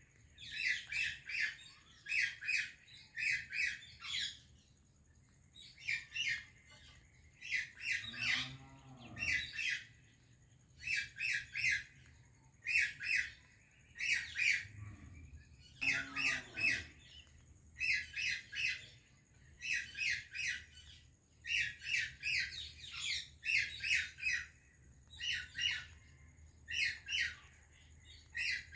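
Parrot calling: shrill squawks repeated in quick runs of three or four notes, about one run a second. Twice it gives a lower, drawn-out call.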